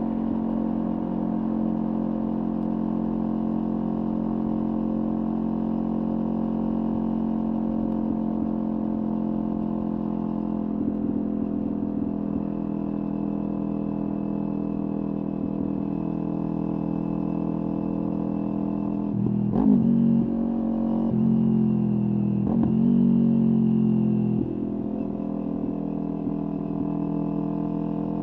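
Kawasaki Ninja 400's parallel-twin engine through a LeoVince aftermarket exhaust, running steadily at a constant low speed, then given a sharp throttle blip about two-thirds of the way in and a louder few seconds of revving before it drops back to the steady note near the end.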